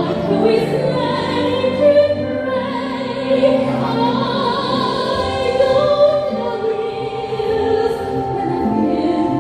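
Soprano singing in operatic style, long notes held with vibrato over instrumental accompaniment.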